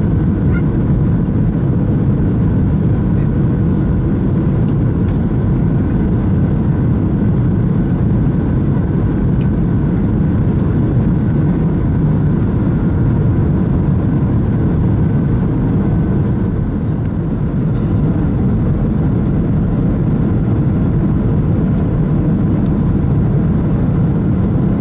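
Steady cabin drone of a Boeing 737-600 in flight, the sound of its CFM56 jet engines and the airflow heard from inside the cabin: a deep, even rush with faint steady tones above it.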